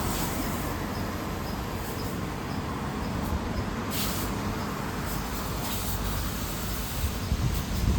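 Road traffic: vehicles passing with a steady low rumble, plus a brief hiss about four seconds in.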